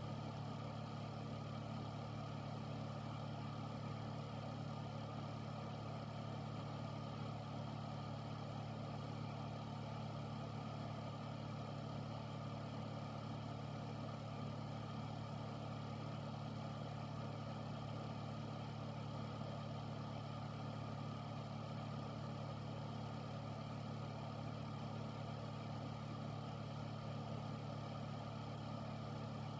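Air filter's fan running steadily: a constant low hum with an even rush of air.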